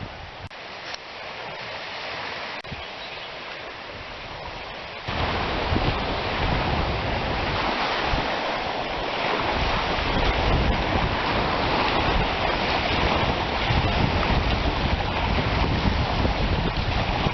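Wind buffeting the microphone: an even rushing noise with a fluttering rumble underneath, which jumps up suddenly about five seconds in and stays loud.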